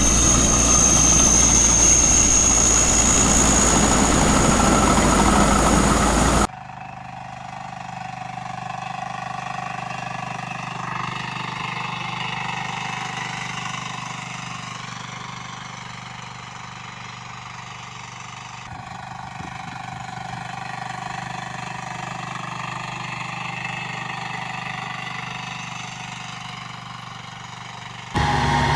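Walking-tractor engines running across several cut-together clips: first a loud engine with a high whine that rises slightly, then after a sudden cut a quieter engine running steadily, with a change about two-thirds of the way in and a return to loud engine sound near the end.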